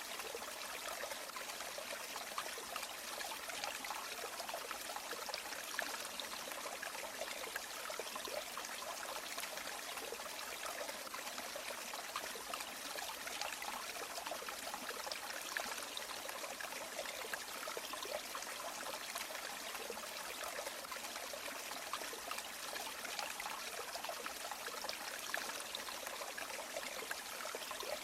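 River water flowing and trickling, a steady even rush that is mostly hiss with little low rumble.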